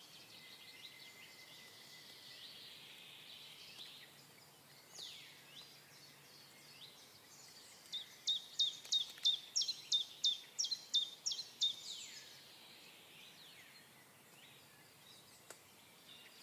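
A songbird singing a rapid series of about a dozen sharp, repeated down-slurred notes for about four seconds, around halfway through. Other faint bird chirps and insect buzz run underneath.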